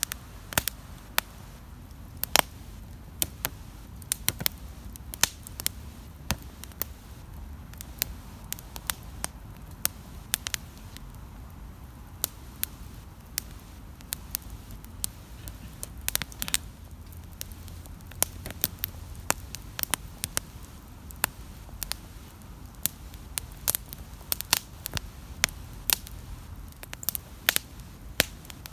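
Wood campfire crackling, with irregular sharp pops several times a second over a low, steady rumble of the flames.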